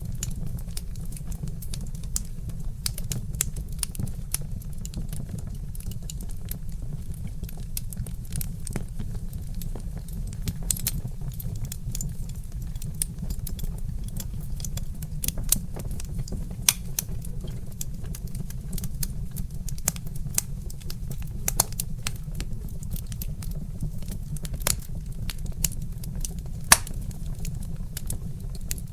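Log fire crackling: frequent sharp pops and snaps, a few louder ones with the loudest near the end, over a steady low rumble.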